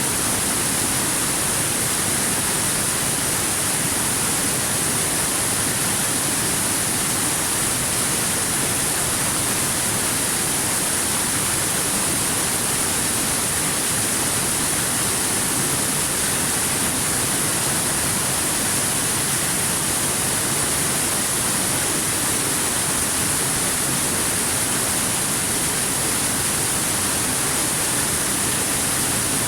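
Waterfall: a steady, even rushing of falling water with no change in level.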